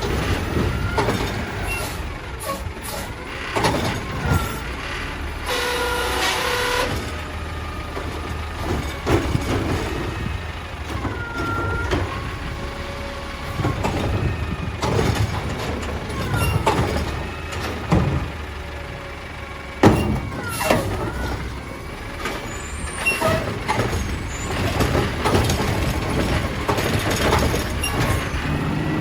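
Mack LR garbage truck with a Heil Durapack Rapid Rail side-loader body, its diesel engine running steadily with rising and falling whines, scattered clanks and air-brake hisses.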